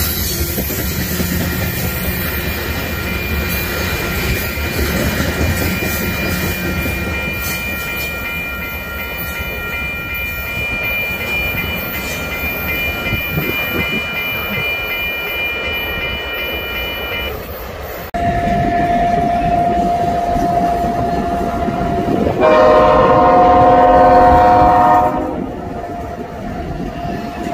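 A loaded train of covered grain hoppers rolls by with a steady rumble and a steady high squeal from the wheels. After a cut, a red-and-yellow diesel locomotive approaches and its horn sounds, first as a single steady note, then as a loud multi-note chord for a couple of seconds near the end.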